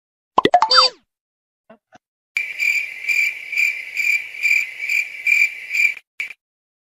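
A brief cartoon sound effect of quick sliding tones, then a high, steady chirping like a cricket's, pulsing about three times a second for a few seconds before it stops.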